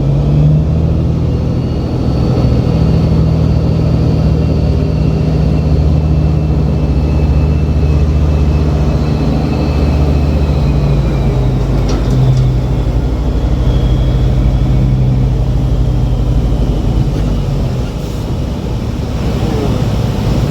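Semi truck's diesel engine pulling a loaded grain B-train forward at low speed under load, with a change in engine note about halfway through.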